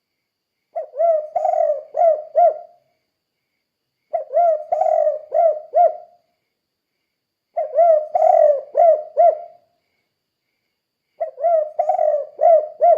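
Spotted dove (tekukur) cooing its 'kuk 2' song: four phrases of about five low, arching coos each, repeated roughly every three and a half seconds with silence between them.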